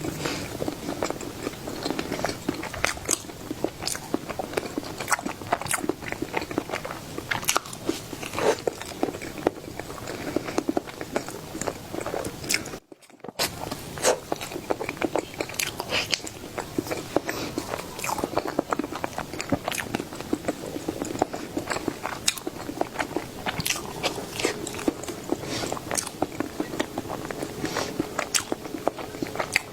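Close-miked eating of a sweet dessert: biting and chewing, with many small wet clicks and crunches from the mouth. The sound breaks off briefly about 13 seconds in, then resumes.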